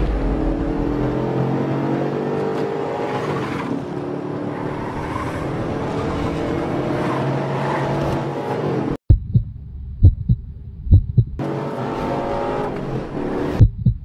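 A car engine accelerating hard at speed, its pitch climbing, dropping at a gear change about four seconds in, and climbing again. It cuts off suddenly about nine seconds in, giving way to deep thumps in pairs like a heartbeat, with a short return of the engine sound between them.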